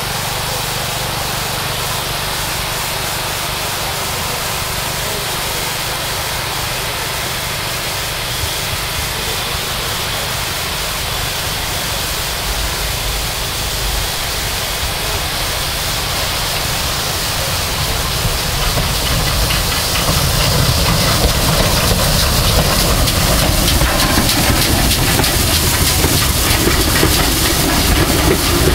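Steam locomotive with a steady hiss of steam, growing louder about two-thirds of the way through.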